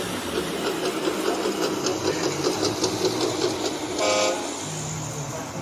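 Rapid, rhythmic mechanical clattering for about four seconds, then a single short horn toot near the end, followed by a brief low hum.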